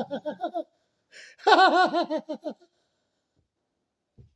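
Two bursts of rapid, pitched, laugh-like vocal pulses, about six a second. The first trails off early and the second follows about a second later, then a soft low thump near the end.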